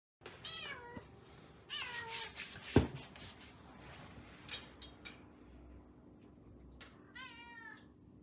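Munchkin cat meowing three times, each a short call falling in pitch. A sharp knock a little under three seconds in is the loudest sound, followed by a few lighter clicks.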